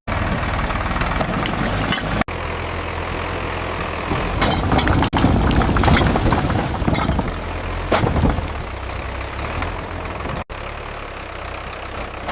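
Tractor engine running with a steady low rumble, louder for a few seconds in the middle. The sound breaks off for an instant three times, at edits.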